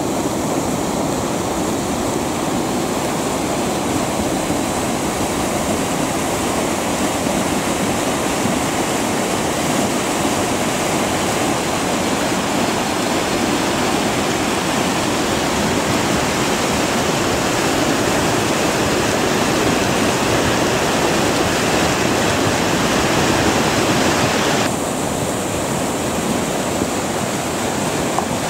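Rain-triggered lahar on Merapi's slope: a volcanic mudflow of water, sand and boulders rushing down the river channel. It makes a steady, loud, roaring rush likened to a jet engine. Near the end the sound abruptly turns duller.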